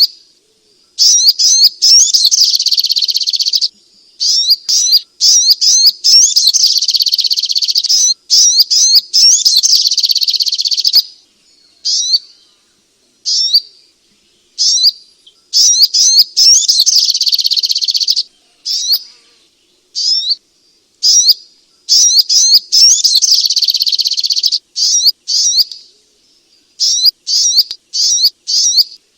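Sogok ontong (little spiderhunter) calling: loud, high-pitched sharp chirps, some single and some run together into dense chattering strings a few seconds long, with short pauses between. This is a recorded call played to stir caged birds into song.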